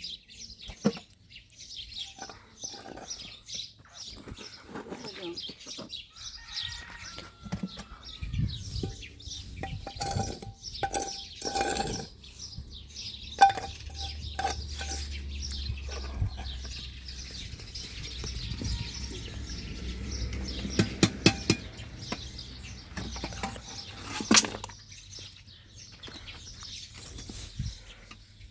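Birds chirping, with scattered knocks and clatter and a low hum through the middle.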